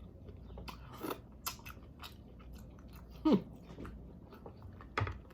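Close-miked chewing and biting of food, with scattered sharp mouth clicks. A short vocal sound falling in pitch comes about three seconds in.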